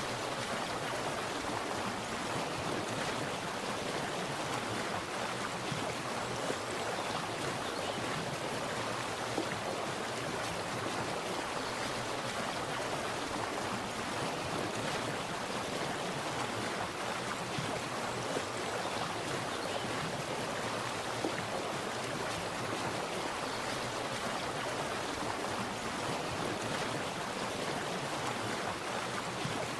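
Water splashing and running steadily, a constant rushing with small splashes on top.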